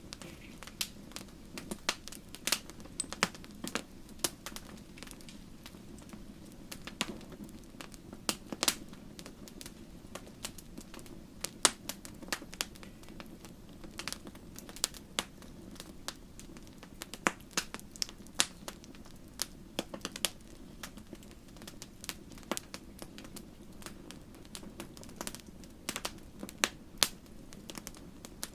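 Wood fire crackling in a fireplace: irregular sharp pops and snaps, sometimes several a second, over a steady low rumble.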